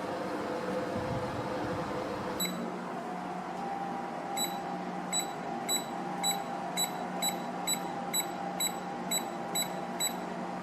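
Bladeless tower fan's control panel beeping at each button press: a run of about fourteen short, high beeps, roughly two a second, over the steady hum of the running fan.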